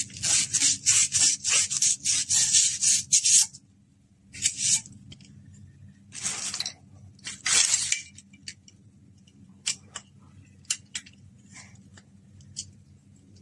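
Pipe being cut with a hand saw: quick back-and-forth strokes for about three and a half seconds, then three slower single strokes. Scattered light clicks and clinks follow near the end.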